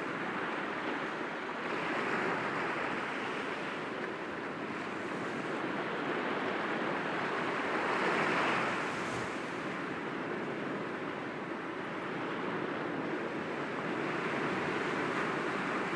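Sea waves breaking gently against rocks: a steady wash of surf that swells about two seconds in and again, loudest, about eight seconds in.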